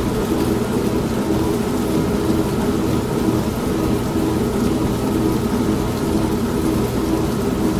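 An old manual washing machine runs steadily with a motor hum and churning, layered with steady rain and a low rumble.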